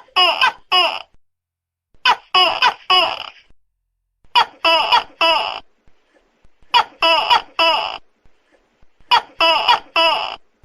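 Tokay gecko calling: loud short 'to-kek' calls, each falling in pitch, in groups of three that repeat about every two and a half seconds, five groups in all.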